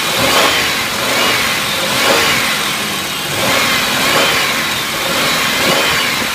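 2002 Buick Century's 3.1-litre V6 running and being revved about four times, the pitch rising and falling back each time. It runs very smooth: a good running engine.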